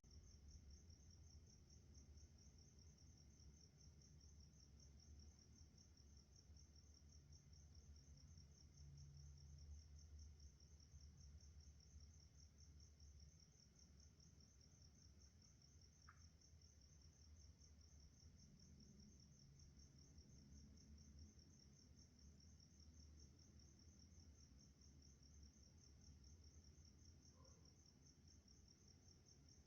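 A cricket trilling steadily in a fast, even pulse, over a faint low rumble.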